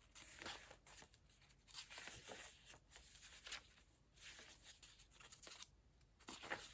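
Faint, irregular rustling of paper pages being handled and turned in a handmade junk journal.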